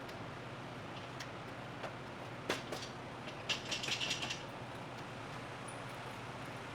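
Light metal clinks and taps of tools and engine parts being handled, a few single clicks and then a quick run of bright clinks about three and a half seconds in, over a steady low shop hum.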